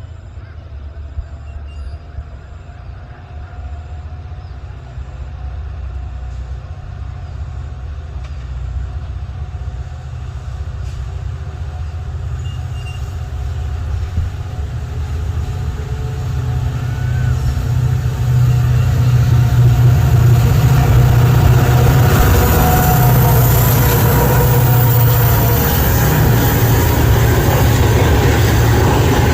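Two EMD diesel locomotives working in multiple, their deep engine drone growing steadily louder over the first twenty seconds as they accelerate and come closer, then staying loud.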